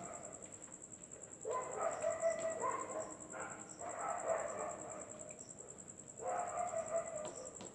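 Dogs barking in the distance in three short bouts, over a steady high insect trill.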